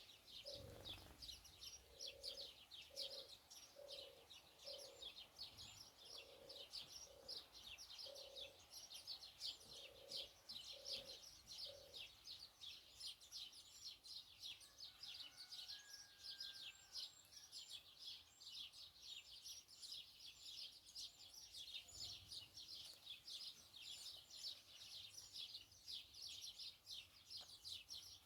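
Small birds twittering in a dense, continuous stream of rapid high chirps. For the first twelve seconds or so a short low note repeats roughly once or twice a second beneath them.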